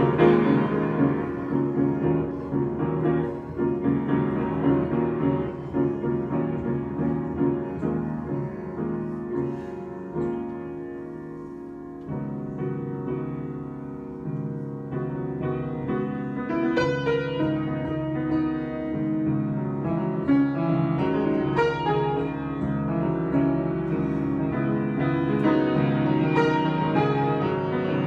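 Solo piano improvisation with sustained, ringing chords. It fades to a quiet pause about ten seconds in, then a new phrase starts and builds.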